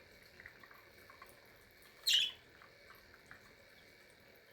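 A budgie gives one short, sharp chirp about two seconds in, over a few faint soft ticks.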